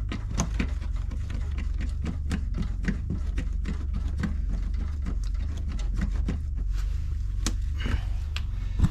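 Irregular metallic clicks and taps, several a second, as nuts are run onto the studs of new stabilizer links, over a steady low hum, with one louder knock near the end.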